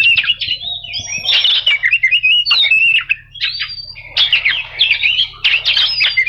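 Oriental magpie-robin singing: a fast run of varied whistles, chirps and harsh chattering notes, with a brief lull a little past halfway before the song picks up again.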